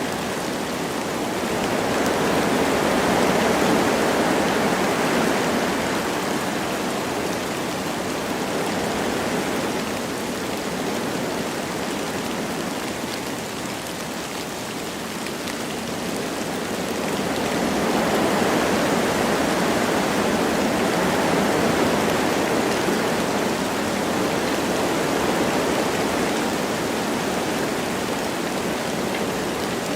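Wind blowing through forest trees with light rain, a steady rushing that swells in two long gusts and eases between them.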